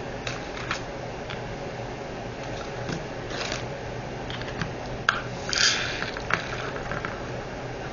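Small plastic clicks and rustling from handling diamond-painting drill bags and small storage containers, with a brief louder rustle a little past halfway, over a steady low hum.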